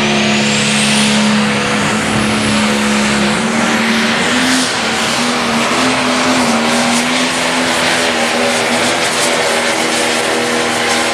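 A light pro stock pulling tractor's turbocharged diesel engine running loud and steady, with a high whine that climbs during the first second or so and a slight rise in engine pitch a few seconds in.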